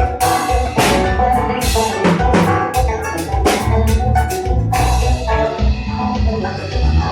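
Live kompa band playing, with a drum kit and heavy bass driving a steady beat.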